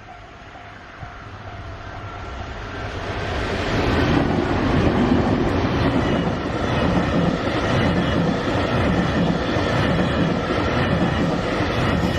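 Sagawa Express chartered electric freight train approaching, growing louder over the first four seconds, then passing close by with a steady rumble of wheels rolling on the rails.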